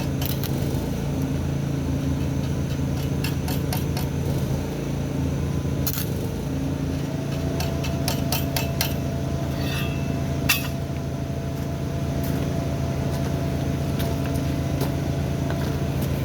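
Stick welder humming steadily with irregular crackles and pops as tack welds are struck; the arc is hard to hold because the power cord is too weak to run the welder.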